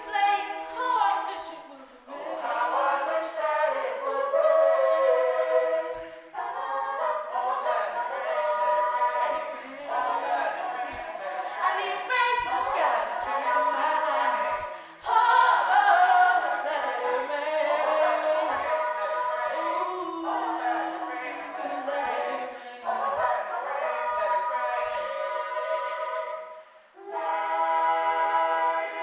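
A cappella group singing: several voices in close harmony without instruments, in phrases broken by short breaths, with a lead female voice over the blend.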